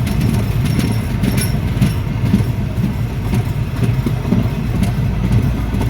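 Train running on the rails: a steady low rumble with scattered clicks and knocks from the wheels and carriages.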